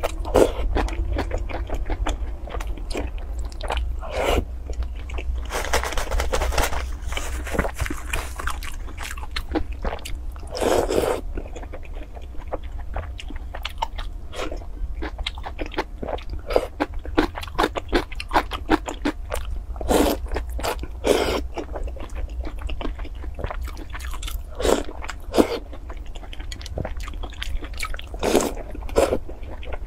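Close-up eating sounds: a person chewing soft, soaked fried dough sticks, with many short wet mouth clicks and several longer slurps as pieces are sucked in. A steady low hum runs underneath.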